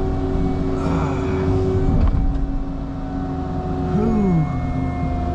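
Cat 306 mini excavator's diesel engine running steadily under load while the machine pushes against a large tree. A brief rushing hiss comes about a second in, and a short falling whine around four seconds.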